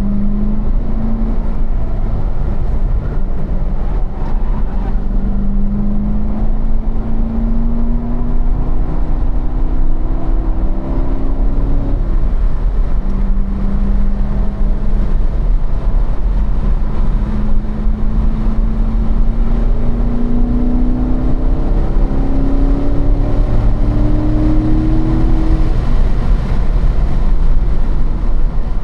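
2015 Corvette Stingray Z51's 6.2-litre LT1 V8, heard from inside the cabin, pulling hard in third gear with its note climbing steadily. The note drops at the upshift to fourth about twelve seconds in, then climbs again as the car accelerates toward 90 mph, easing off near the end. A steady low road-and-wind rumble runs underneath.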